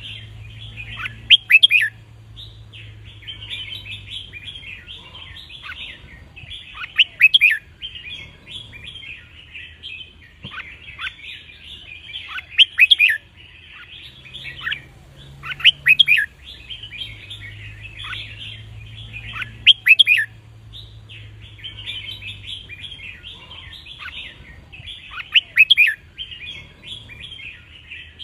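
Red-whiskered bulbuls singing: steady twittering chatter, broken about every six seconds by a loud, clear song phrase.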